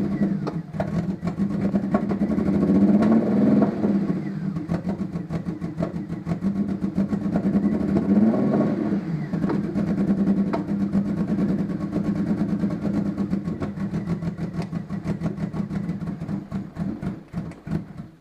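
Mazda KLZE 2.5-litre V6 in a Ford Probe running roughly with an uneven beat, revved up twice, then dropping away at the very end. The roughness is a multiple-cylinder misfire (P0300) caused by fouled spark plugs.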